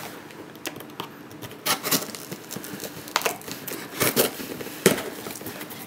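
Packaging being handled: scattered crinkling, rustling and small clicks of the lens box and its wrapping, with a few sharper crackles in the middle.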